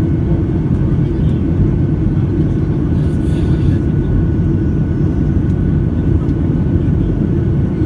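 Steady low rumble of the engines and rushing air, heard inside the cabin of a Boeing 737-800 (CFM56-7B turbofans) in flight, with a faint steady whine above it.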